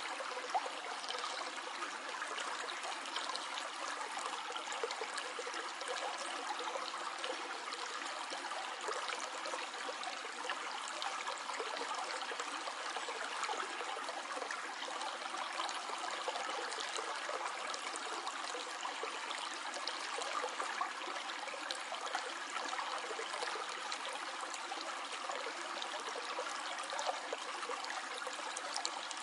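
Stream water flowing and trickling steadily over stones, an even rushing with fine splashing and no pauses.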